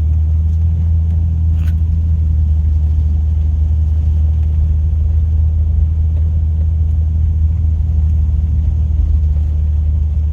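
1998 Jeep Cherokee running, a steady low drone of engine and drivetrain that holds an even pitch without revving.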